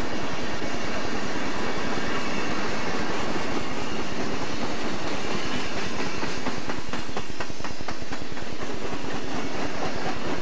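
Southern Pacific freight cars (multilevel autoracks and a gondola) rolling past close by: a steady rumble and hiss of steel wheels on rail, with a quick run of wheel clicks over a rail joint about seven to eight seconds in.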